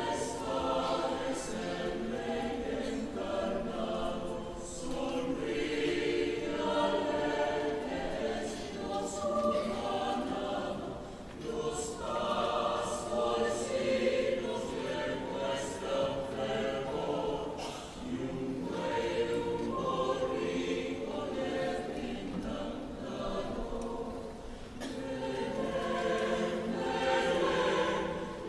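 Mixed choir singing a cappella, several voice parts in sustained chords, with brief dips in level between phrases.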